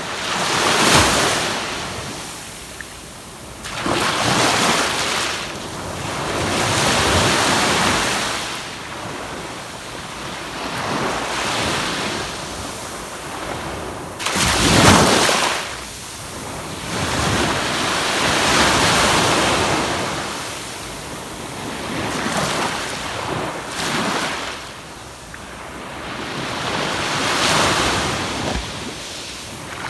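Waves breaking and washing up on a sandy beach, swelling and ebbing every three to four seconds, with the biggest surges about a second in and about halfway through.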